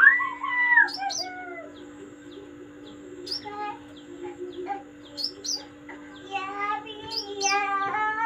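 Songbirds calling in the wild: a series of short chirps and gliding, wavering calls, busiest near the end, over a steady low hum.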